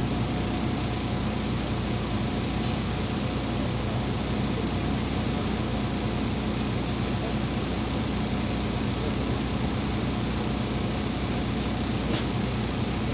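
MAZ 203.065 city bus under way, a steady engine drone and rolling noise heard from inside the passenger cabin. There is one short click about twelve seconds in.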